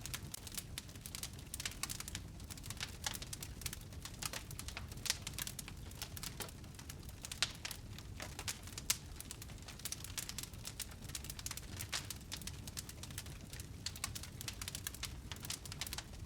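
Wood fire burning in a fireplace: irregular crackling with frequent small snaps and a few louder pops over a low steady rumble of the flames.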